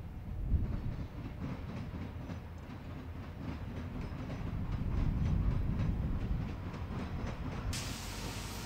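Freight train wheels pounding over a railroad diamond crossing: a rapid run of sharp clacks over a low rumble that grows louder toward the middle. Near the end a steady hiss sets in suddenly.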